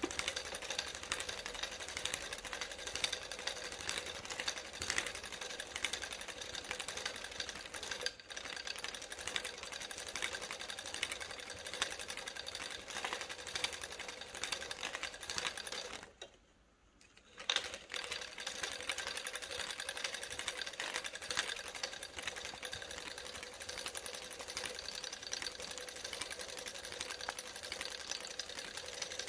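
A small motor whirring steadily with fast, even mechanical clicking. It cuts out for about a second and a half about two-thirds of the way through, then starts again with a click.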